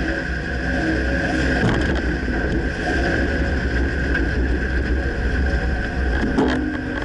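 Dodge Ram pickup on the move: a steady low road and drivetrain rumble with a constant high tone over it. A short knock comes about two seconds in and another near the end. These knocks are typical of the front-end clunk whose cause the owner can't pinpoint.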